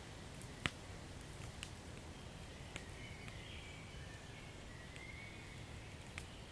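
Wood fire crackling: a steady low rumble of burning with a few sharp pops, the loudest about two-thirds of a second in and another near the end. A faint wavering high whistle runs beneath.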